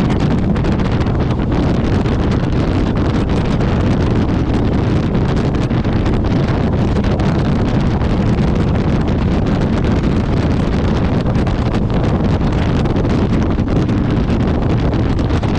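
Loud, steady wind rushing over the microphone of a motorcycle riding at highway speed, with the bike's engine and road noise underneath.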